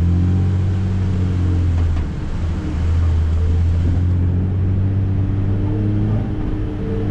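A vehicle's engine running at low, steady revs under load. The engine note eases off briefly about two seconds in and then picks back up.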